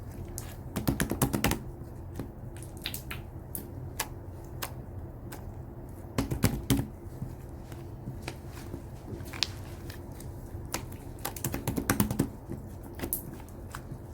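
Slime being squeezed and worked by hand, giving off a crackle of small sticky clicks and pops, with three louder, denser flurries about a second in, around six seconds in and near the end.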